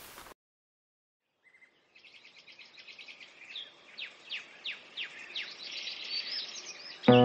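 Birds chirping and singing: quick repeated chirps and falling whistled notes that fade in from silence and grow louder.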